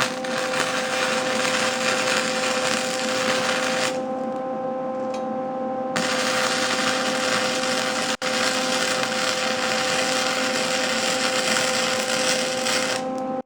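Wire-feed (MIG) welder arc crackling and sizzling as a bead is laid on a steel exhaust pipe, in two runs: one of about four seconds, a short pause, then a longer run of about seven seconds. A steady hum carries on under it throughout.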